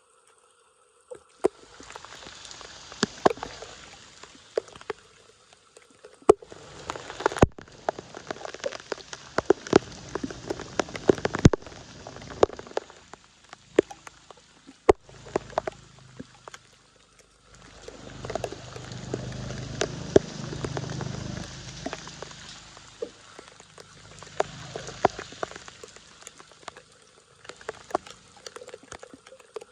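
Water splashing and trickling in bursts that start and stop, with many sharp clicks and a lower gush of water about two-thirds of the way in.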